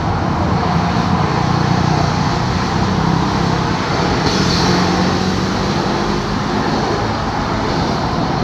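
Steady road-vehicle engine and traffic noise, with a short hiss about four and a half seconds in.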